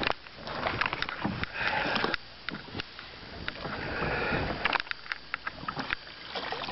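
Bass being released over the side of a boat: water splashing, with a run of short knocks and clicks from handling in the boat near the end.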